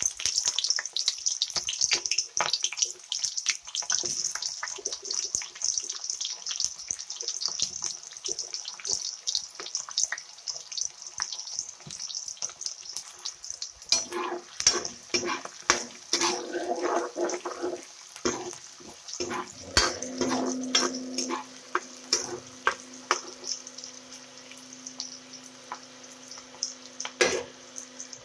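Shallots and onions frying in hot oil in a wok: a steady sizzle with constant crackling and popping. From about halfway it grows louder and busier, with scattered knocks.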